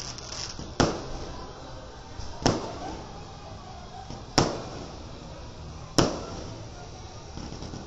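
Aerial firework shells bursting: four sharp bangs, about one every one and a half to two seconds, each trailing off in an echo.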